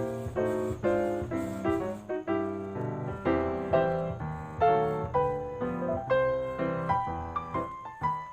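Background piano music, a steady run of struck notes and chords that ring and fade.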